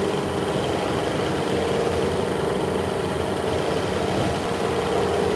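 Steady machine hum, unchanging, with a constant mid-pitched tone over a low rumble.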